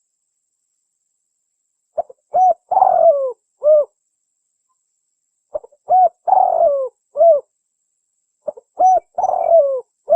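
Spotted dove (tekukur) cooing its lure call: three identical phrases about three seconds apart, each a short note, a coo, a longer falling coo and a final coo, after about two seconds of silence.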